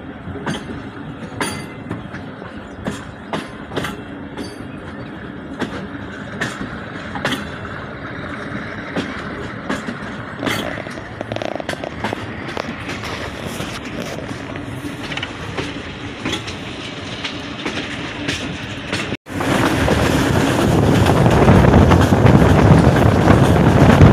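Hazara Express passenger train running along the track: a steady rumble with frequent irregular sharp clicks of the wheels over the rail. About 19 seconds in it cuts abruptly to a louder, denser running noise of the train at speed.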